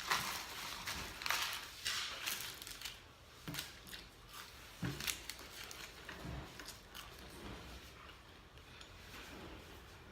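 Close-miked eating sounds: bites and crunchy chewing of fast food in irregular bursts, densest in the first few seconds.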